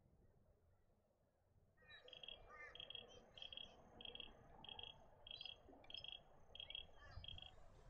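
Faint bird calls: a short high note repeated steadily about twice a second, with other brief chirps mixed in, starting about two seconds in.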